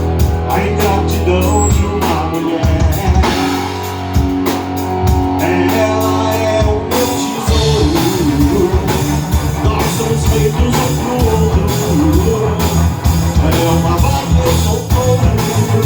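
Live band music: drum kit, bass and guitar playing an instrumental passage, with evenly spaced drum strokes and sustained bass notes; the groove changes about halfway through.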